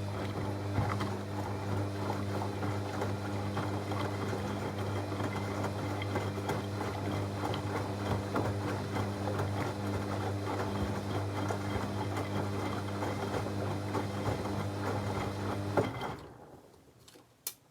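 Techwood WB 91042I washing machine tumbling its drum: a steady motor hum with the wash churning and splashing. About 16 s in, the motor stops for a pause, typical of the drum reversing between turns. A click comes near the end of that pause.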